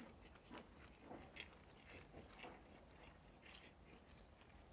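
Faint chewing and mouth sounds of people eating, with soft, irregular smacks and clicks.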